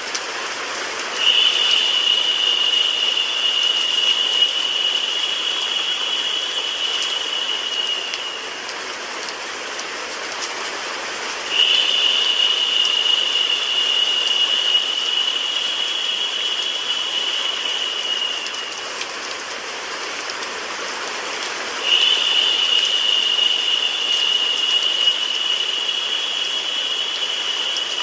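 Steady rain and white noise. Three times, about every ten seconds, a high, narrow hiss comes in suddenly over it, lasts about seven seconds and fades, and is the loudest part while it lasts.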